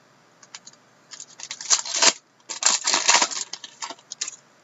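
Trading cards and their packaging being handled: a run of rustling and clicking, with two denser bursts around the middle and scattered clicks near the end.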